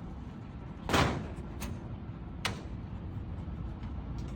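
A heavy thump about a second in, then two shorter sharp knocks, over a steady low rumble.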